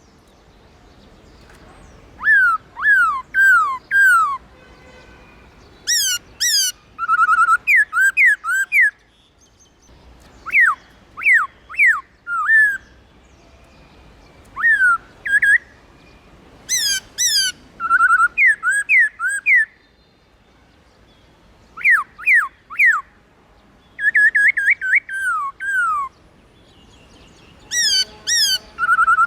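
Black-throated laughingthrush singing: loud phrases of three to five clear whistled notes, each sliding down in pitch, with a short gap every couple of seconds.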